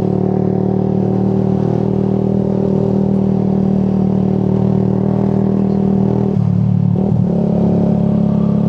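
Motorcycle engine running steadily under way, its note dropping and shifting about six seconds in as the throttle or gear changes, then holding steady again.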